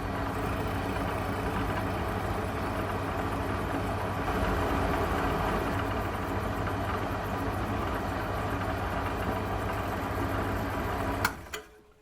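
Electric motor of a benchtop machine tool running steadily with a constant hum, stopping abruptly near the end.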